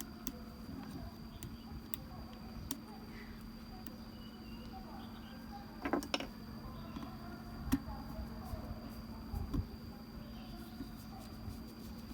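Scattered light clicks and three louder knocks, about halfway through and near the end, of small metal parts being handled on a workbench, over a steady low electrical hum.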